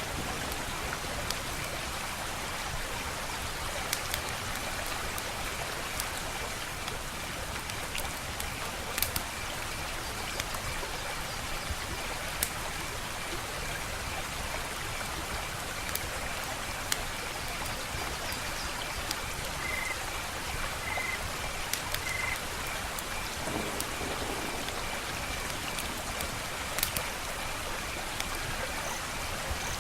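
Wood fire crackling, a steady hiss with sharp pops and snaps at irregular intervals.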